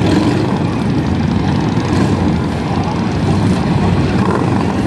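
Motorcycle engines running, loud and steady with a low-pitched pulsing.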